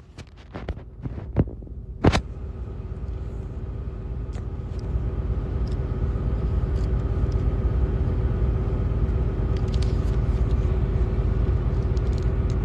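A few sharp knocks and clicks in the first two seconds. Then a steady low rumble with a hum, as of a vehicle engine idling, heard from inside the cab; it swells over the next few seconds and then holds.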